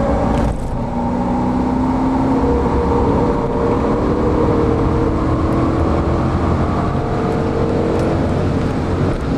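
E39 Alpina B10's V8 engine heard from inside the cabin, pulling under acceleration on track, its pitch rising slowly. It dips briefly about half a second in and again near the end.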